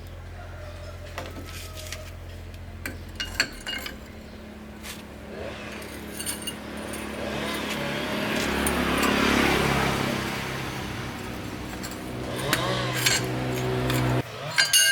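A motor vehicle engine running steadily with a low hum. The hum shifts in pitch about three seconds in and cuts off suddenly near the end. In the middle a louder swell of engine and road noise rises and falls, with scattered light metallic clinks throughout.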